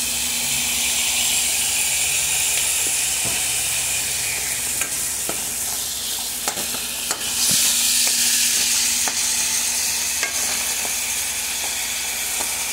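Peas, carrots and onion in tomato sauce sizzling in a hot pan over high heat, with a metal spoon scraping and clicking against the pan as they are stirred. The sizzle swells louder for a second or so about halfway through.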